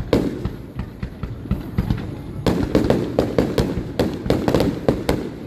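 Fireworks going off: one bang right at the start, then a rapid string of bangs and pops from about halfway through, each with a short echoing tail.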